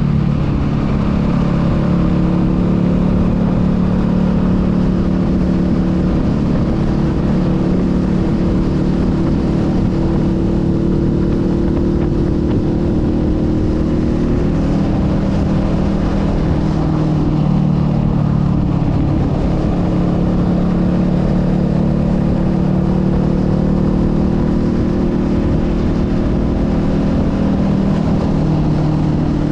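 Honda Rebel 500's parallel-twin engine running under way on the road, the engine note dipping and climbing again a little past halfway as the throttle eases off and opens back up.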